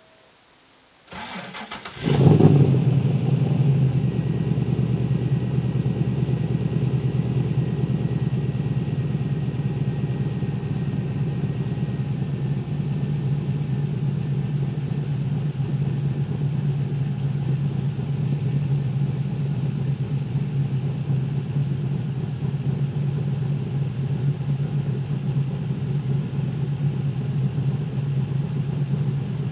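1963 Chevy Nova's LS3 6.2-litre V8 cold-started: the starter cranks for about a second, the engine catches with a brief rev flare about two seconds in, then settles into a steady idle.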